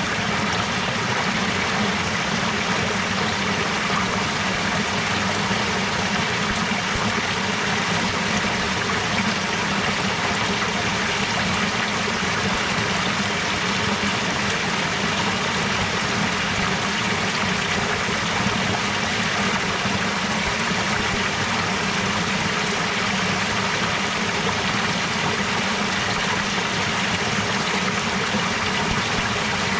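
Clear stream water flowing and trickling steadily.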